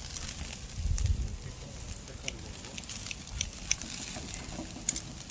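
Pine and oak wood fire crackling, with sharp irregular pops, as pork grills over it; a low rumble about a second in.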